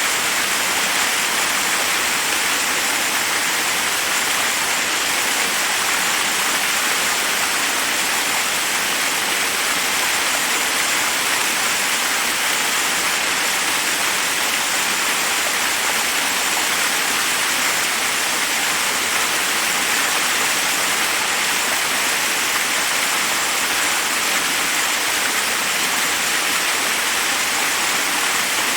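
Forest waterfall: water cascading over rocks in a steady, unbroken rush, with the most energy in the upper, hissing range.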